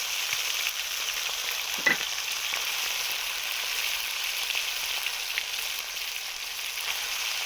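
Marinated goose meat sizzling in hot mustard oil with fried cumin, a steady frying hiss just after the meat goes into the pan. A single short knock sounds about two seconds in.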